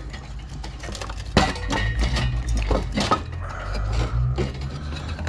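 Clicks, knocks and clatter of metal and plastic computer parts being handled and pulled apart during the dismantling of an old PC, over a low steady hum.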